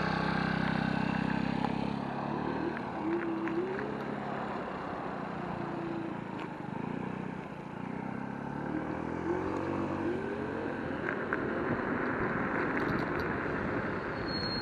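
Electric scooter riding along a street: steady wind and tyre noise, with a motor whine that rises and falls in pitch as the scooter speeds up and slows. A low steady hum in the first two seconds.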